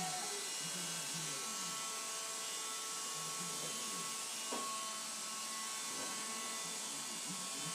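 Electrolux Ergorapido cordless stick vacuum running steadily with a small-motor hum, with a light click about halfway through.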